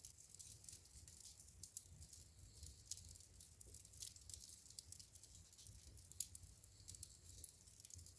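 Wood fire crackling in a fireplace: faint, irregular small snaps and pops, a few sharper ones, over a soft low rumble of the flames.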